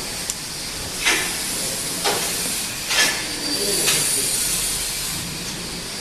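Steady machine hiss with a sharp metallic click about once a second, from tunnel-dryer machinery.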